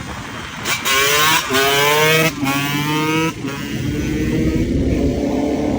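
A vehicle engine revving as it accelerates. Its pitch climbs, falls back twice in the first few seconds, then rises slowly and steadily.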